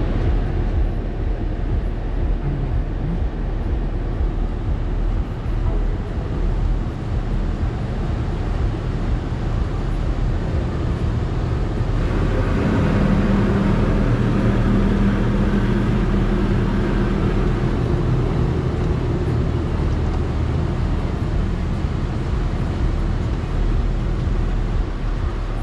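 A car's engine runs with a steady low hum, getting louder and fuller for several seconds about halfway through.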